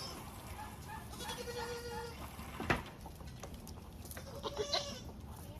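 Nigerian Dwarf goats bleating: two short calls, about a second in and again near the end, with a single sharp knock between them.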